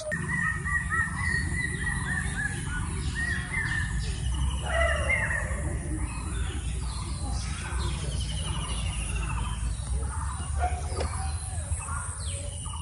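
Several birds chirping and calling, with repeated short trills, over a steady low rumble.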